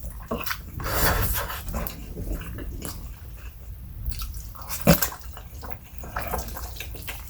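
Close-miked eating sounds of stir-fried instant noodles (pansit canton): wet chewing and slurping, with a longer slurp about a second in and a sharp click near five seconds.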